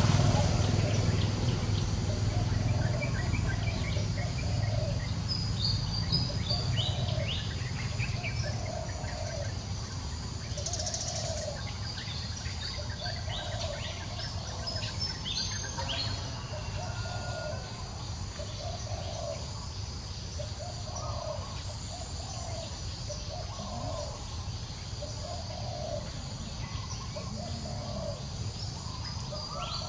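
Outdoor bird ambience: a low call repeated about once a second, with scattered higher chirps, over a low rumble that fades in the first few seconds.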